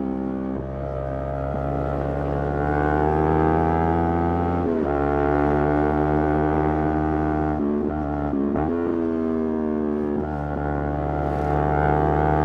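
Yamaha YZF-R3's parallel-twin engine running steadily under way, the note climbing slowly with rising revs. Several brief dips and breaks in the note, as at throttle lifts or gear changes, come around the middle and near the end.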